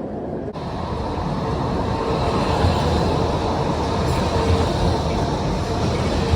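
Street tram running on its rails: a steady rumble with a faint steady hum from the tram.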